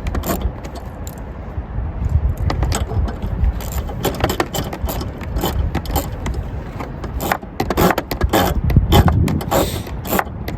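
Hand wrench working bolts loose in a car's engine bay: irregular metallic clicks and clinks of the tool on the fasteners, over a low handling rumble.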